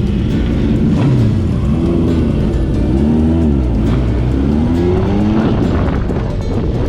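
Motorcycle engines running and revving, the pitch rising and falling several times between about two and six seconds in.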